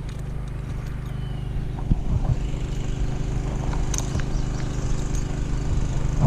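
A motor vehicle engine running at a steady speed, a constant low hum, with a few light knocks and clicks.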